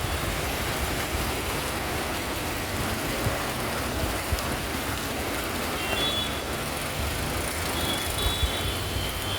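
Steady rain hiss mixed with road traffic rumbling at a junction. A few brief high tones sound in the second half.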